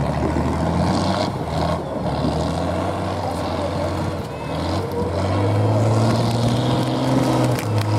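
Diesel engine of an off-road competition truck running under load, its note stepping up as the revs rise about five seconds in and dipping briefly just before the end.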